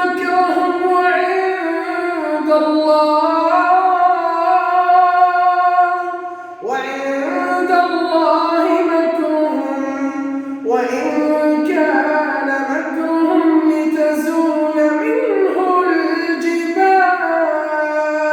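A man reciting the Quran unaccompanied in melodic tajweed style in maqam Saba, with long held, ornamented notes. He pauses for breath about six seconds in and starts new phrases then and again near eleven seconds.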